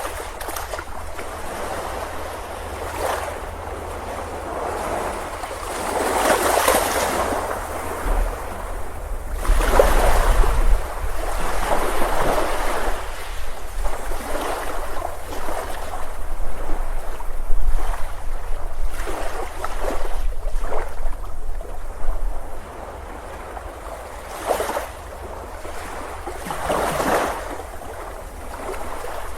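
Ocean waves breaking and washing on a beach, the surf swelling and easing every few seconds, with wind rumbling on the microphone through the middle of the stretch.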